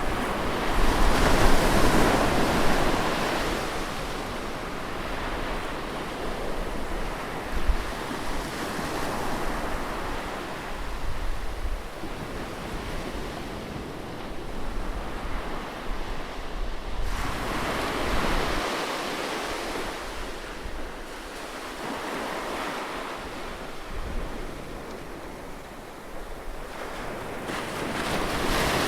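Ocean surf: waves breaking and washing up a beach, swelling loudest about two seconds in, again a little past halfway, and near the end, with low wind rumble on the microphone in the first half.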